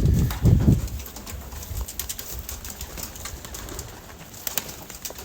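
Homing pigeons cooing, loudest in about the first second, followed by faint scattered clicks and scuffles.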